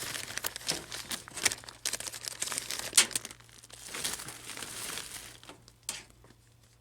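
The plastic jacket of an HVAC flex duct crinkling and crackling as it is handled while a duct strap is fitted around it, in irregular sharp crackles, the loudest about three seconds in; it dies down near the end.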